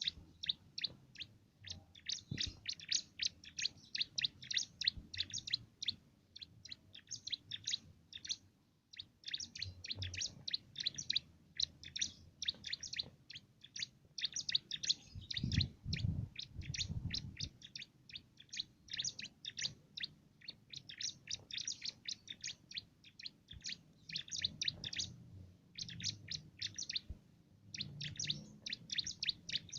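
Cimblek (ciblek) songbird singing a loud canary-like song in long phrases of rapid high chirps and trills, with a few short pauses. A brief low rumble comes in about halfway through.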